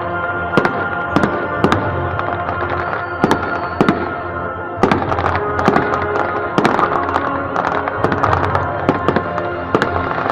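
Fireworks going off in a rapid series of sharp bangs, about one or two a second and coming faster about halfway through, with music playing throughout.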